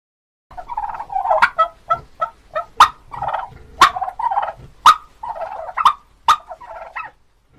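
Turkey gobbling: repeated bursts of rapid, warbling calls broken by sharp, loud notes. It starts about half a second in.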